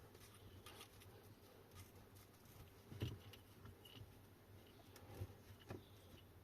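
Faint small clicks and taps from hands and tools working at parts inside an electric bike hub motor, with one sharper knock about three seconds in.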